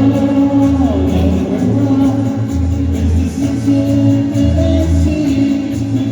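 Live band music with a strong, steady bass line and guitar.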